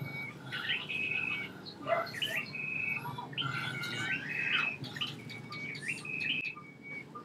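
A bird calling over and over, about once every second and a bit: each call a short upward-hooked note followed by a steady held whistle.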